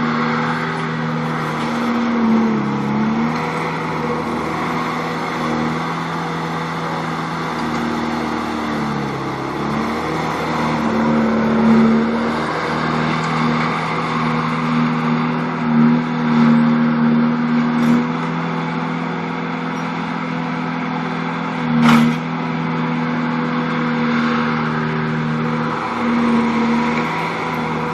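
Bobcat T250 tracked skid-steer loader's diesel engine running steadily at working speed while it handles logs with its grapple, the pitch dipping briefly a few times as the engine takes load. One sharp knock about two-thirds of the way through.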